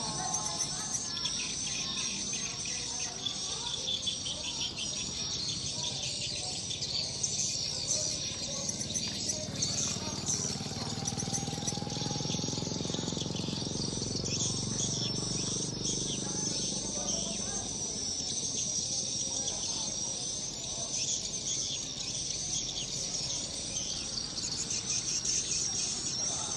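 Dense, continuous high twittering of swiftlet calls: the evening lure sound that draws edible-nest swiftlets home to a swiftlet house.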